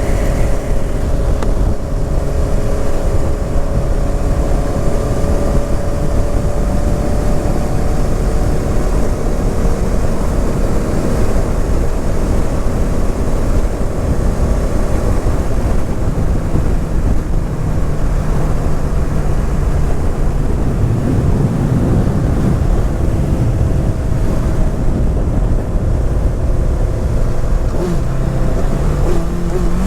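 Honda CBR 650R's inline-four engine and exhaust running on the move, heard over heavy low rumble. The engine note slides slowly down over the first ten seconds, holds steadier mid-way, and drops quickly right at the end as the revs fall.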